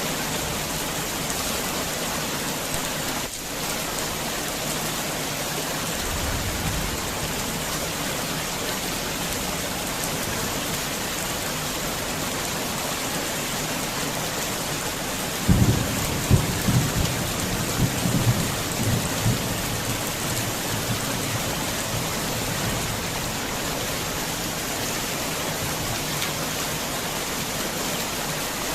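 Heavy rain falling steadily. A faint low rumble comes about a quarter of the way in, and a louder peal of thunder rumbles and cracks for about four seconds past the middle.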